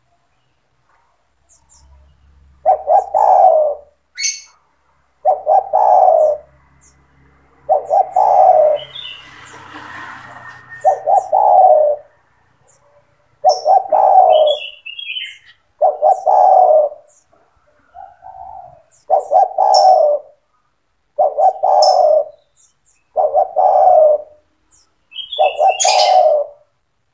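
Spotted dove (tekukur) cooing repeatedly and persistently: about ten mellow phrases of roughly a second each, one every two to three seconds. Brief high chirps of small birds are scattered between them.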